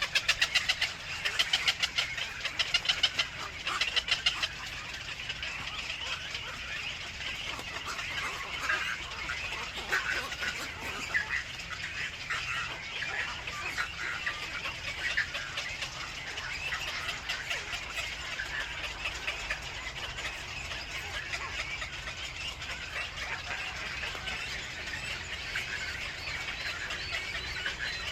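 Birds chirping: a loud, rapid run of repeated calls in the first few seconds, then a steady, busy stream of chirps.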